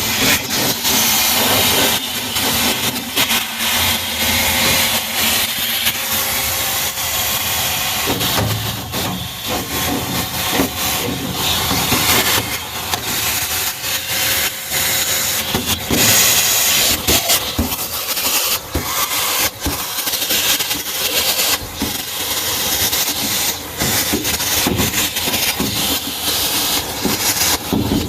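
Vacuum cleaner running with a steady loud hiss of suction, the sound wavering as the nozzle is worked over dust inside a furnace.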